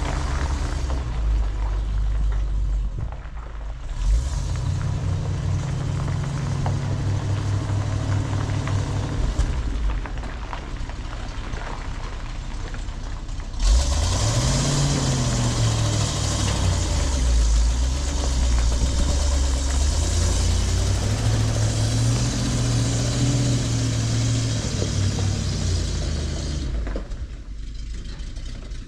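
Ford F700 truck engine running as the truck is moved, its pitch rising and falling several times with the throttle. A sharp knock comes about four seconds in and another near the middle. After the second knock a steady hiss runs over the engine until shortly before the end.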